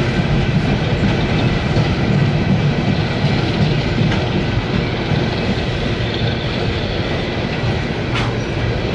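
CSX coal hopper cars of a freight train rolling past: a steady low rumble of steel wheels on rail with a faint steady high whine, and a brief sharp click about eight seconds in.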